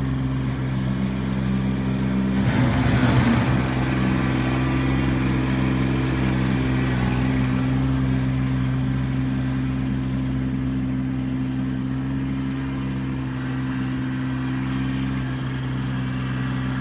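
Kubota B2650 compact tractor's diesel engine running steadily, with a louder, rougher stretch about three seconds in.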